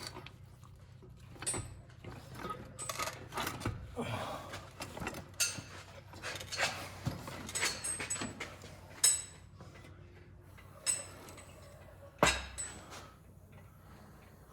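Intermittent metal clinks and clatter of hand tools and loose parts being handled while working on a pickup's drivetrain, with a heavier clank and thump about twelve seconds in.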